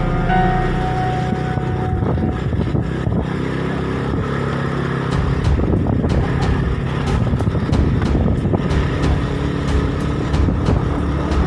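A motor vehicle's engine running steadily, as on a road. Background music fades out in the first second.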